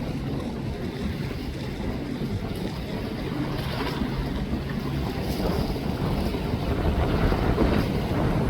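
Wind buffeting the microphone over a wash of river water, with a faint low hum in the first few seconds; the rumble grows a little louder in the second half.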